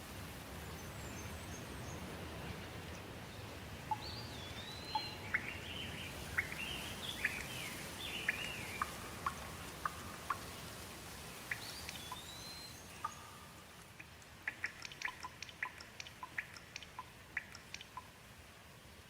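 Birds singing over a steady hiss of light rain, with curving whistled notes in the middle. Near the end the rain thins and a quick run of short, sharp notes follows.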